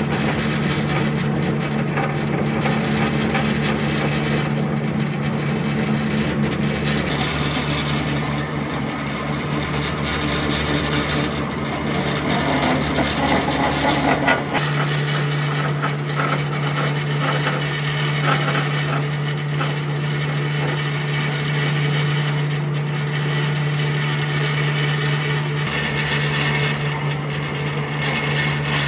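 Power tool working wood: a steady motor hum under continuous rough rubbing or cutting noise, with the hum shifting about seven seconds in and again about halfway through.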